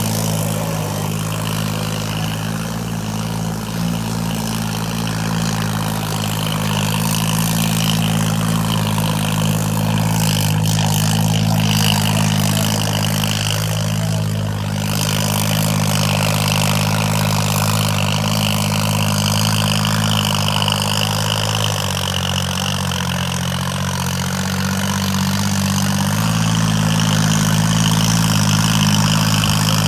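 John Deere tractor's diesel engine running steadily at a constant speed. Its pitch dips briefly about two-thirds of the way through, then picks back up.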